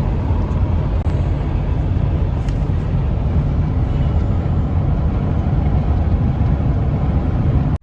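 Steady road and engine noise heard from inside a van moving at highway speed, a deep even rumble with a hiss of tyres over it.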